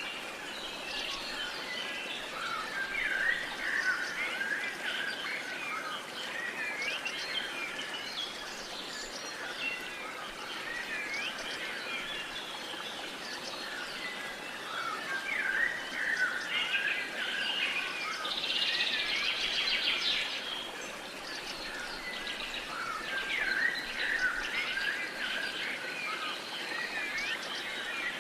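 Several songbirds singing and chirping over one another in a steady outdoor chorus, with quick whistled slurs and chirps and a dry buzzy trill about two-thirds of the way through.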